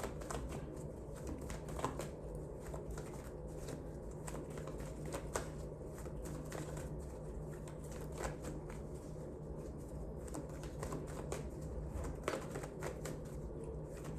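A deck of oracle or tarot cards being shuffled by hand: an irregular run of soft card clicks and riffles over a low steady background hum.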